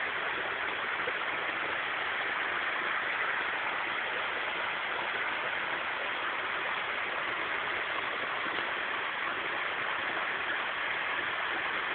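Steady rush of flowing stream water, an even noise with no changes or distinct events.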